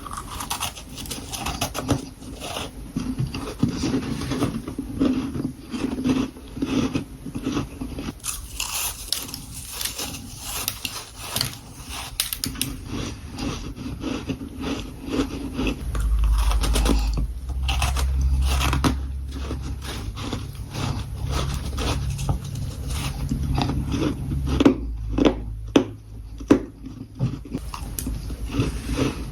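Close-miked biting and chewing of humidifier-grown freezer frost: dense, crackling crunches follow each other without pause. A low rumble joins for several seconds about halfway through.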